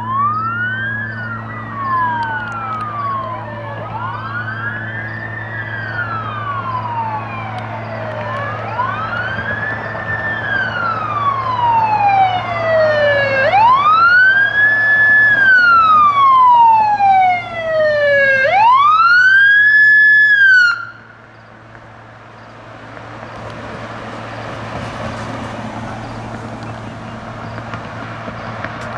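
Wail sirens of several police vehicles responding, their slow rising and falling sweeps overlapping out of step. One siren grows loud and then cuts off suddenly about two-thirds of the way through, leaving road traffic noise.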